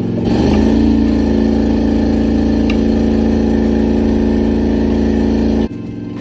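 An engine speeds up in the first half-second, runs at a steady higher speed, then drops off abruptly near the end.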